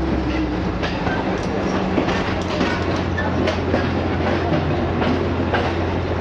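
Passenger train carriage rolling along the track, heard from inside the car near an open door: a steady low drone from the running gear, with irregular clicks and knocks as the wheels pass over the rail joints.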